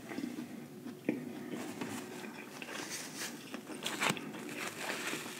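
A person chewing fried lobster tail close to the microphone: wet mouth-chewing sounds with a few short crisp crunches, one about a second in and a couple around four seconds in.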